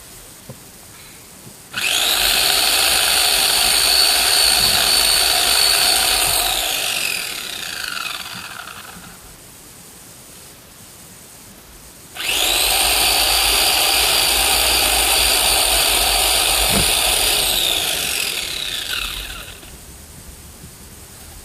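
Electric chainsaw cutting wood in two bursts of a few seconds each. Each burst starts suddenly as a steady, high motor whine and ends with the pitch falling away as the saw winds down.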